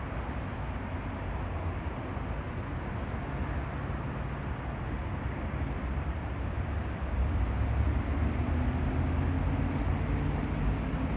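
Low, steady rumble of distant engine noise with a faint hum, swelling louder about seven seconds in.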